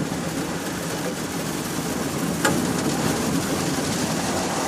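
Automatic car wash running around the car, heard from inside the cabin: a steady rush of noise over a low hum, with one sharp knock about two and a half seconds in.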